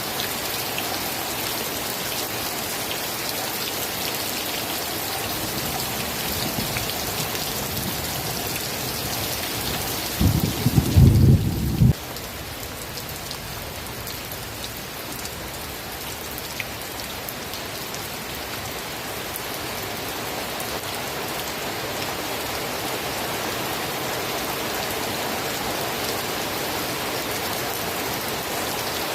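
Steady rain falling and pattering on surfaces. About ten seconds in, a loud, low rumble lasts under two seconds and cuts off abruptly.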